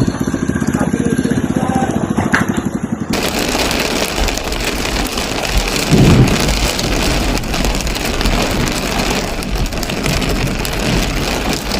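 A steady, rhythmic low pulsing. About three seconds in it cuts abruptly to the loud, even rush of heavy rain in a storm, with a low rumble about six seconds in.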